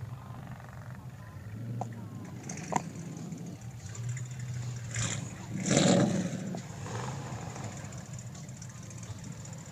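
Car engine running, with a short, louder burst about six seconds in.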